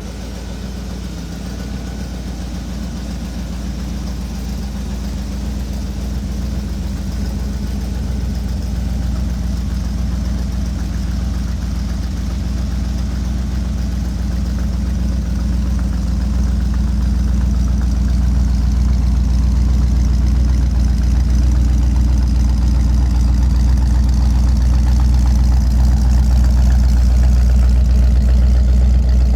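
The engine of a 1938 Chevrolet Master Deluxe street rod idling steadily with a deep, low rumble that grows gradually louder.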